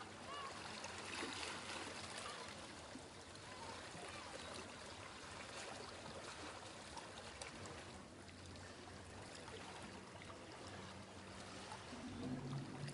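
Venetian canal ambience: water lapping and trickling over a low, steady boat-engine hum, which grows stronger near the end.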